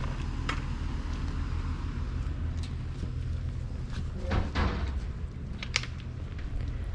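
A steady low rumble with scattered sharp clicks and knocks, and a short clatter about four and a half seconds in.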